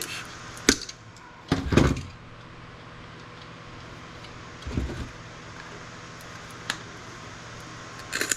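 Components being worked loose from a scrap circuit board with hand tools: a sharp click, a louder scraping clatter a little later, then scattered knocks and clicks.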